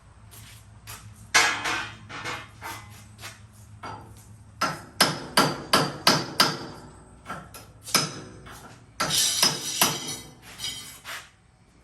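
Hammer blows on metal at the mower's blade: one sharp blow about a second and a half in, then a run of about six blows, roughly three a second, and a longer rattling burst near the end. A low steady hum runs underneath.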